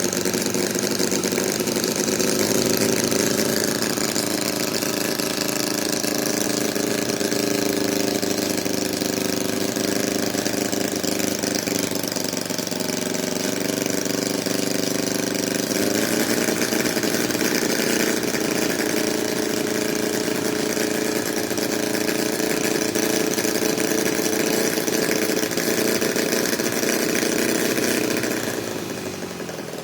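Miniature gasoline engine running steadily. Its speed sags a little around twelve seconds in, then picks up again about four seconds later, and the sound fades near the end.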